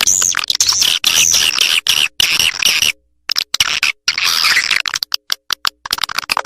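Recorded swiftlet calls played as a lure to draw swiftlets into a nesting house: fast high twittering chirps and trills over rapid clicking, with a brief break about three seconds in.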